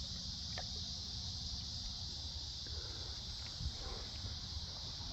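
Steady high-pitched insect chorus over a low rumble, with a few faint clicks and a small knock about three and a half seconds in.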